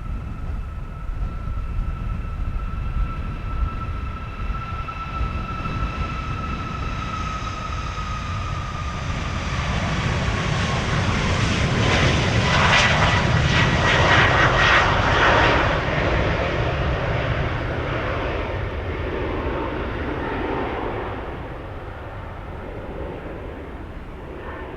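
Jet airliner passing by: a high engine whine that drops slightly in pitch, building to its loudest about halfway through, then fading away. A low wind rumble on the microphone runs underneath.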